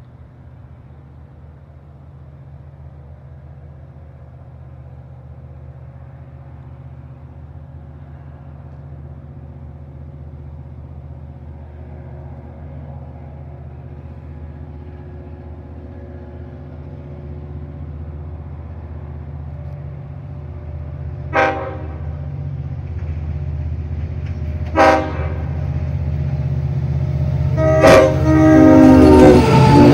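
Long Island Rail Road diesel push-pull train approaching, its low rumble growing steadily louder. Its horn sounds two short blasts about three seconds apart, then a longer blast near the end as the train reaches the crossing.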